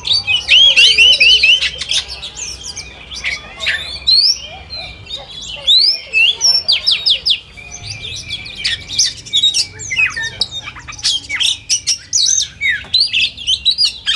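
Several oriental magpie-robins (kacer) singing at once: a dense, overlapping run of quick whistles, slurred glides and repeated notes, with a loud burst of rapidly repeated whistles near the start.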